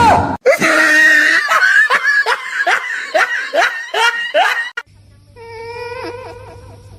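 Hearty human laughter: a rapid run of about a dozen loud 'ha' bursts, each rising in pitch. It cuts off abruptly near 5 s into a much quieter stretch with a steady low hum.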